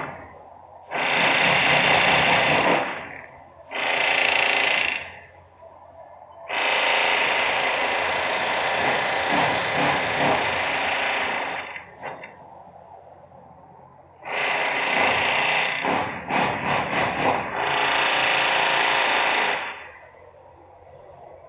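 Loud power-tool noise from industrial work, coming in bursts of one to five seconds with short lulls between, including a quick stuttering on-off run about two-thirds of the way in.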